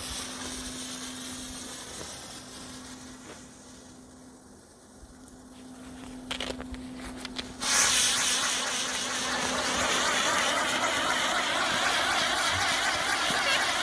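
Saturn Wheel spinning firework: its fuse fizzes quietly with a few crackles. About eight seconds in, the wheel ignites with a sudden loud, steady hiss of sparks that wavers in an even rhythm as it spins.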